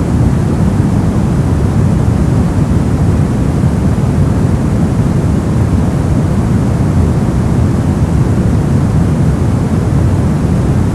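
Steady, unbroken noise sold as white noise for sleep: an even, deep rushing hiss, heaviest in the low end, with no changes in level or pattern.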